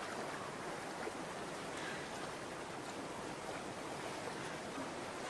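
Shallow stream water running steadily.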